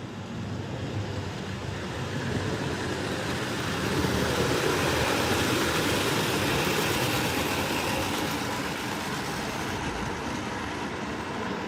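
OO gauge model train running along the layout, its motor and wheels on the track growing louder to a peak a few seconds in, then fading as it moves away.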